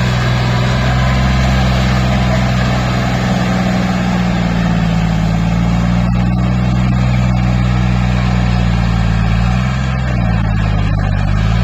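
A tractor engine running steadily at a constant speed. About ten seconds in, its pitch dips briefly and then comes back up.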